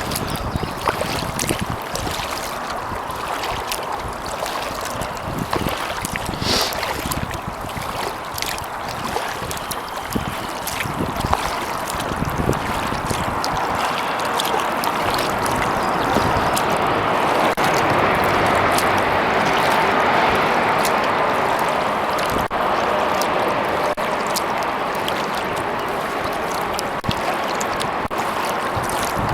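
Water splashing and trickling around a kayak being paddled, with many small clicks and knocks. A louder rushing hiss swells through the middle and then eases.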